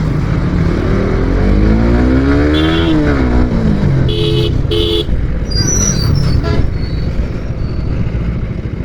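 Suzuki GSX-R motorcycle engine pulling through traffic, its pitch rising for about two seconds and then dropping. About four seconds in, a vehicle horn gives two short beeps.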